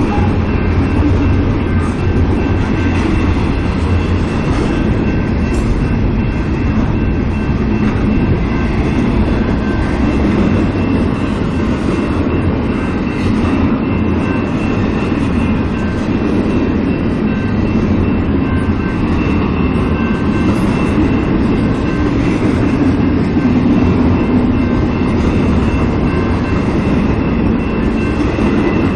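Intermodal freight train cars rolling steadily past: a continuous rumble of steel wheels on rail, with a faint steady high ringing over it.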